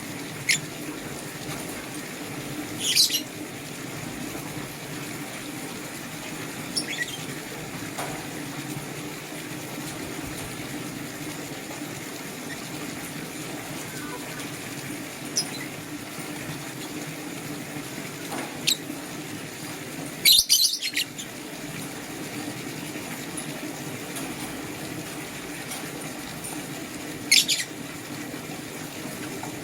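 Lovebirds giving short, shrill chirps every few seconds, the loudest a quick cluster about two-thirds of the way through, over a steady low background noise.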